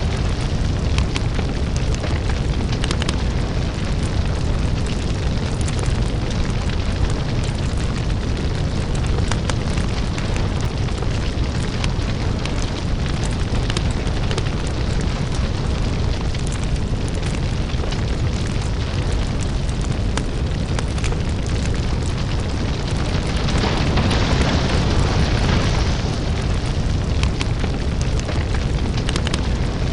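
Crackling lava fire ambience: a dense, steady deep rumble with many small crackles and pops, swelling into a brighter hiss for a couple of seconds about three-quarters of the way through.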